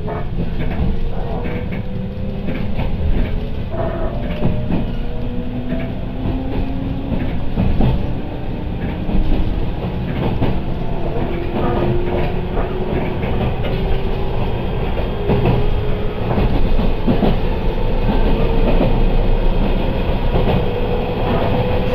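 Electric commuter train pulling away and gathering speed, heard inside the carriage: a running rumble with the clickety-clack of wheels over rail joints, and a motor whine that rises slowly in pitch as the train accelerates.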